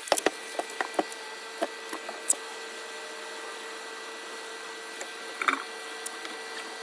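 A steady motor hum with several fixed tones, with sharp clicks and taps clustered in the first second and a few more scattered later.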